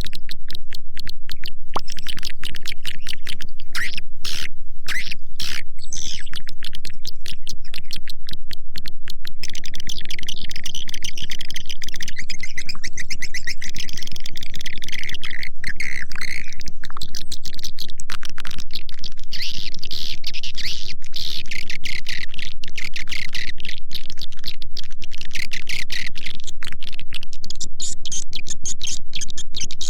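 Swiftlet lure call track: rapid, dense clicking with chittering swiftlet chirps layered over it, growing fuller after the first several seconds. It is played at a steady loudness to call a swiftlet colony into a nest house.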